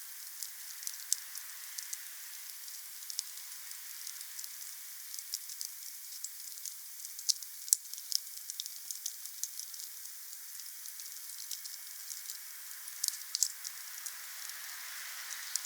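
Wood fire crackling: irregular sharp snaps and pops over a steady hiss, with a few louder snaps about halfway through and again near the end.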